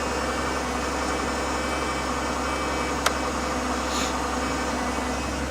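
2003 Ford Taurus SE engine idling steadily on a cold start, with a steady whine from the power steering pump, which the owner calls still pretty bad. A brief click about three seconds in.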